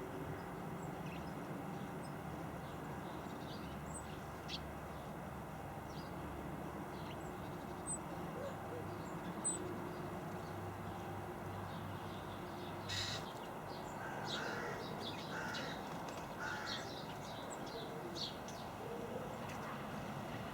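Garden birds calling over a steady background hum: scattered short, high chirps, one sharp tap a little past the middle, then a run of harsher repeated calls.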